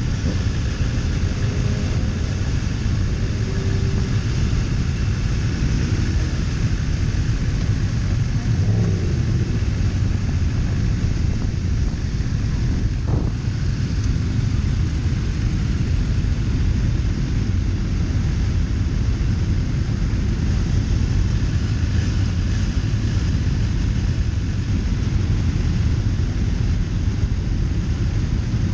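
Sport motorcycles, a 2017 BMW S1000RR's inline-four among them, idling together in a queue: a steady low rumble.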